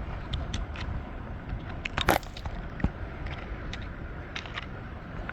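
Scattered crunches and clicks of beach gravel being handled and shifted, with one louder crunch about two seconds in, over a low steady background hiss.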